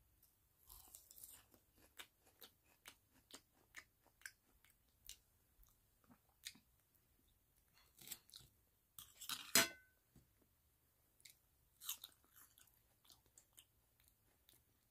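Close-up chewing of a forkful of homemade tostada bowl, with crisp crunches of shredded lettuce and cheese at an irregular pace. One louder, noisier burst about nine and a half seconds in.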